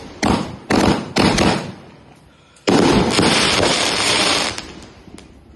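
Fireworks battery (cake) going off: three quick bangs about half a second apart, then a longer dense burst of noise lasting about two seconds that fades away.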